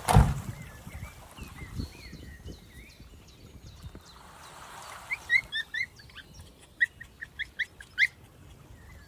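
Birds chirping: scattered faint chirps, then from about halfway a run of sharp, short high chirps, some coming quickly one after another. A brief thump right at the start.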